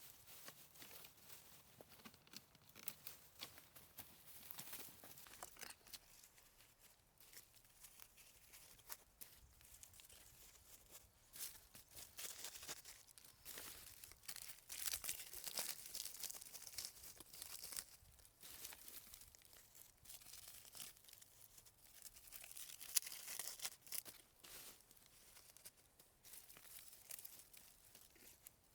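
Faint, irregular crackling and rustling of dry twigs, leaves or bark being handled, with scattered sharp clicks and snaps.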